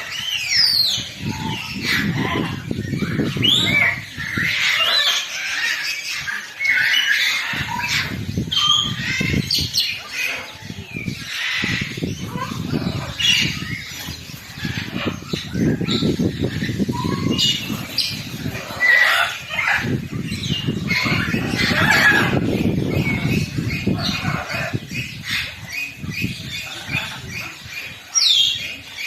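A group of birds calling, with many short chirps overlapping throughout, over long stretches of a low, rapid fluttering.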